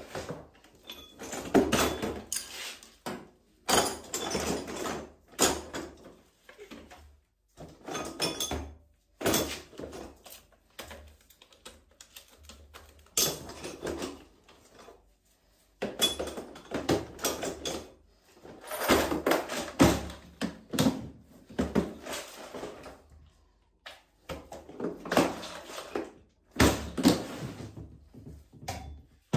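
Irregular knocks, thuds and clattering of washing machine parts and panels being handled and fitted, coming in bunches of a second or two with short pauses between.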